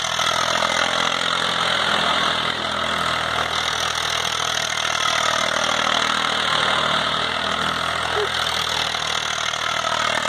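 Eicher 380 tractor's diesel engine running steadily.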